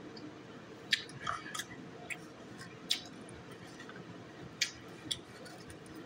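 Close-up chewing of jerk chicken: a string of short, irregular wet mouth clicks and smacks over a low background.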